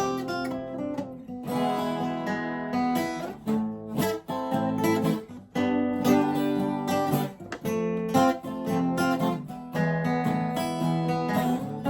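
Acoustic guitar strumming chords in a steady rhythm, each stroke cutting in sharply over the ringing strings.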